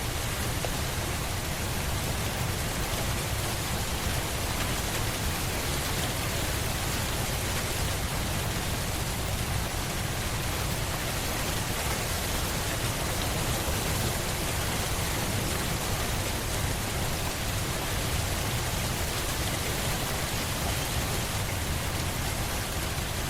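Steady rain falling on a surface, an even hiss with a low rumble underneath and no break or change.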